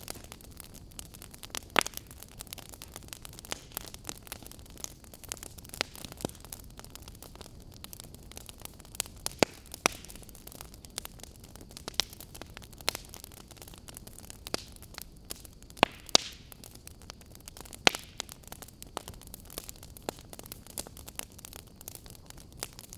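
Wood fire burning: a steady low hiss with frequent sharp crackles and pops from the burning logs, and a few louder snaps scattered through.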